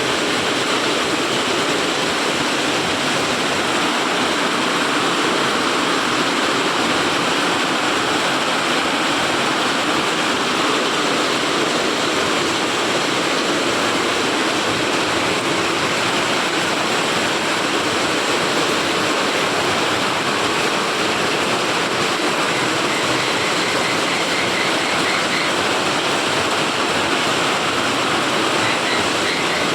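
Heavy rain pouring down steadily: a dense, even hiss of falling water.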